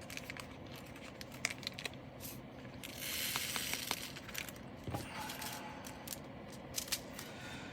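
Small plastic bags and diamond-painting drills being handled: scattered light clicks and taps, with a rustle lasting about a second about three seconds in.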